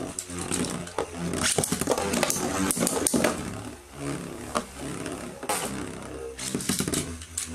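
Metal Beyblade spinning tops whirring in a battle stadium, with many sharp clacks as they strike each other and the stadium wall.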